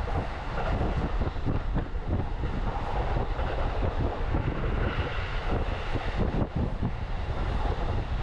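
Electric commuter train running at speed, heard from inside the carriage: a steady low rumble with an uneven clatter of wheels on the rails.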